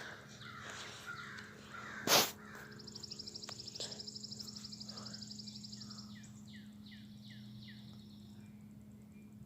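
American crows cawing in the first couple of seconds, then a brief loud noise about two seconds in. After it a small bird gives a rapid, high-pitched trill for about three seconds, followed by a run of short chirps that each fall in pitch, over a steady low hum.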